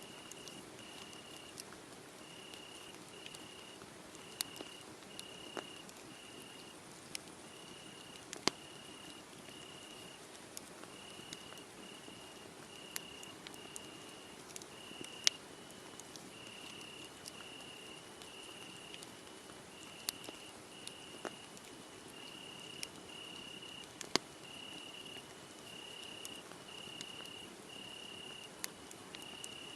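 Wood fire crackling, with sharp irregular pops, over a cricket chirping steadily in short even pulses, about three chirps every two seconds.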